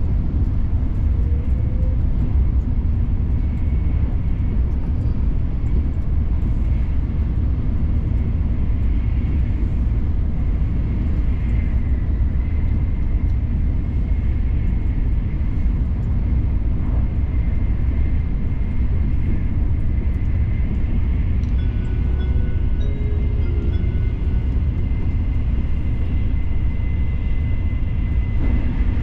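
Shinkansen bullet train running at speed, heard from inside the passenger cabin: a steady low rumble with a thin, high, steady whine that grows clearer partway through.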